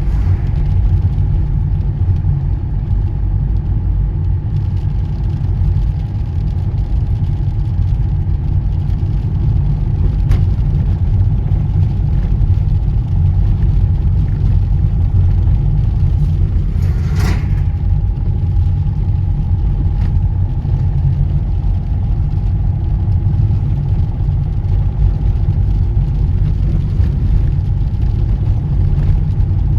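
Car driving along a road: a steady low rumble of engine and tyres with a faint constant whine, and one brief hiss a little past halfway.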